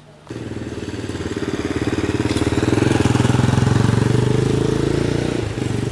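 Engine of a motor vehicle, possibly a motorcycle, running close by. It comes in suddenly, grows louder toward the middle and eases off near the end, as a vehicle passing on the street would.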